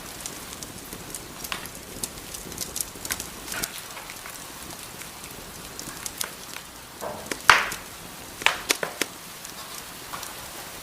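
Wood fire burning in a fireplace: a steady soft hiss with scattered sharp crackles and pops. The loudest pop comes about seven and a half seconds in, followed closely by a quick run of several more.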